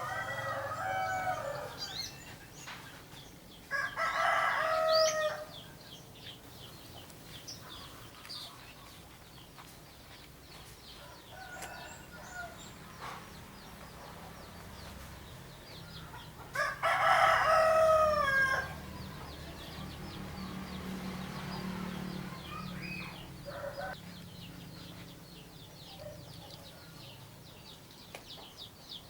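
A rooster crows three times: at the start, about four seconds in, and a longer crow about seventeen seconds in. Small birds chirp faintly between the crows, with a run of quick, thin chirps near the end over a low steady hum.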